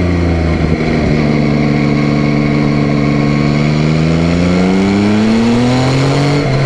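Yamaha Tracer 9's inline three-cylinder engine pulling under way. It holds a steady pitch, then rises in pitch as the bike accelerates, and drops abruptly near the end at a gear change.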